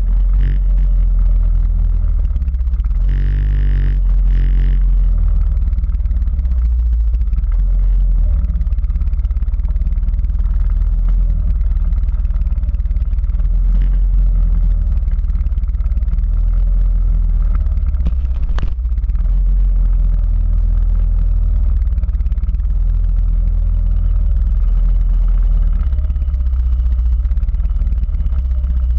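Quad bike engine running during an off-road ride, a steady low rumble with some clatter. There is a brief pitched sound about three seconds in and a single sharp click later on.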